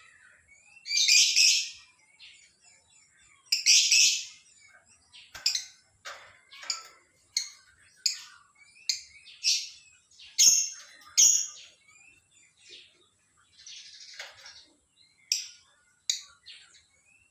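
Lovebird calling: two longer loud chattering calls in the first few seconds, then a string of short, shrill chirps coming about once or twice a second.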